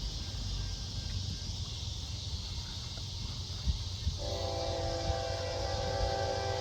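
Locomotive air horn on a GE ES44AC diesel sounding one long multi-note chord that starts about four seconds in, over a steady low rumble and hiss.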